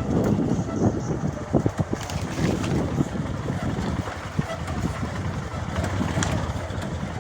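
Motorcycle running while being ridden, a low rumble of engine and wind on the microphone, with frequent short knocks and rattles.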